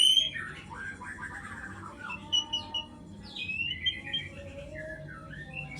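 White-rumped shama calling and chirping: a loud rising call at the start, then a run of varied short whistled notes and chirps.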